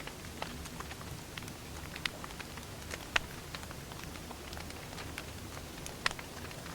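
Wood fire burning with a steady low hiss and irregular crackles and pops, the sharpest pop about three seconds in.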